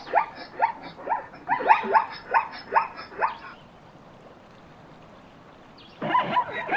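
A mammal calling: a run of short calls that each drop in pitch, about two a second, then a pause and another burst of calls near the end.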